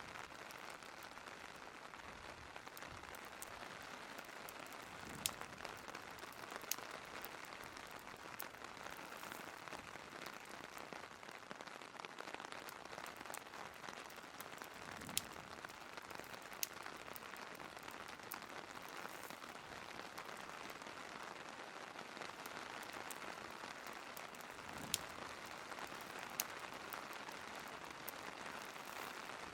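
Steady rain hiss with the sharp crackles of a wood fire: a pair of pops about every ten seconds.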